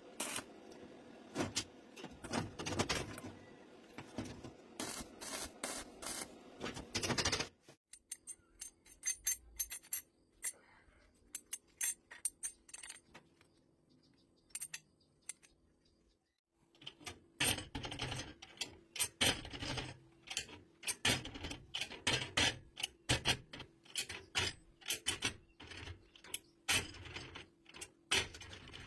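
Metal parts clicking and clanking over and over, as a homemade latch made from motorcycle gears is handled and worked. A quieter stretch falls in the middle, and a faint steady hum runs underneath.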